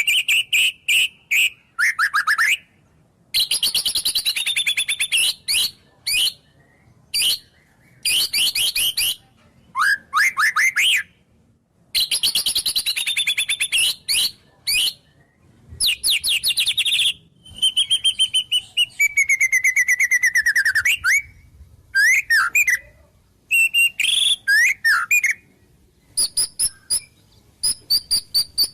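White-rumped shama singing a varied run of separate phrases: clear whistles, rapid clicking trills and slurred notes falling in pitch, with short silent gaps between them. The song is full of phrases copied from wild birds.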